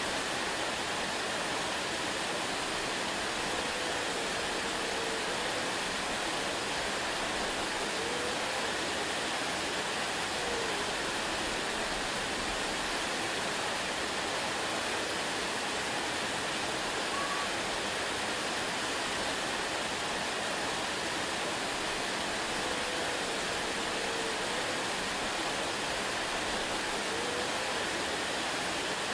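Waterfall rushing in a steady, even hiss with no breaks, and a few faint brief rising-and-falling notes over it now and then.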